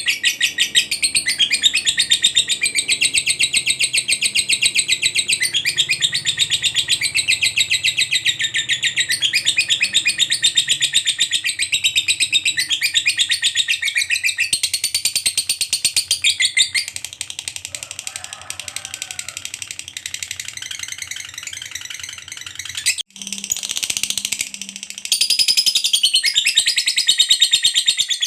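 Lovebird giving its long 'ngekek' chattering song: a very fast, high, unbroken trill of harsh chirps. It goes softer for a few seconds past the middle, breaks off briefly, then picks up loud again near the end.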